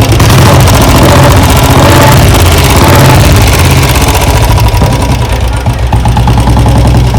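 Royal Enfield Bullet single-cylinder engine running steadily with a fast, even ticking and knocking. This is the 'tik tik' top-end noise that the mechanic traces to worn-out hydraulic tappets.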